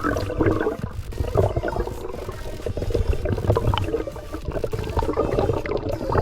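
Muffled underwater noise: water churning and gurgling around the camera, with low rumbling and small bubbly clicks.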